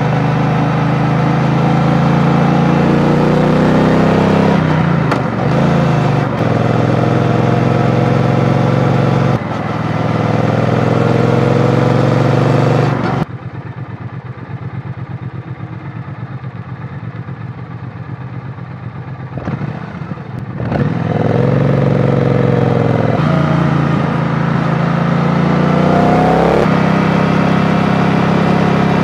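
Triumph Bonneville T120 parallel-twin engine under way, its pitch rising and falling with throttle and gear changes, with wind rushing over the microphone. About thirteen seconds in it drops suddenly to an even idle at a standstill, and after about seven seconds it pulls away again, revving up through the gears.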